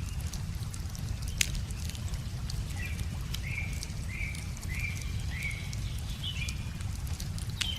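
Wood fire crackling with scattered sharp pops, one louder pop about a second and a half in, over a steady low rush of the river. In the middle a bird sings a run of about six short, evenly repeated chirps, with one higher note near the end.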